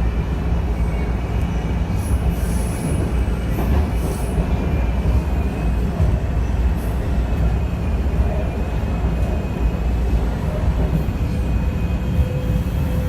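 Train rolling by: a loud, steady rumble of the cars with a thin, high wheel squeal held over it.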